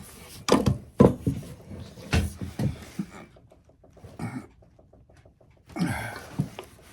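A dog panting close by, with a few short muffled vocal sounds in between.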